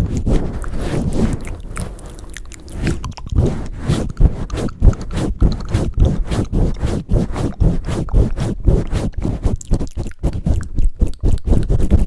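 Close-up ASMR trigger sounds made right on the microphone. A soft, low rustling runs for about two and a half seconds, then gives way to quick, irregular scratching strokes, several a second, each with a low thump.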